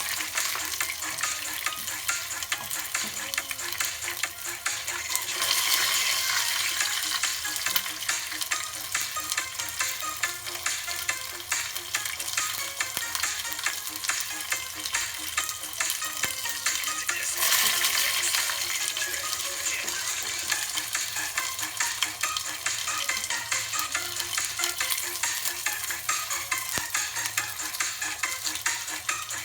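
Breadcrumb-coated chicken bites frying in hot oil: a steady crackling sizzle that swells louder twice, about five seconds in and again around seventeen seconds.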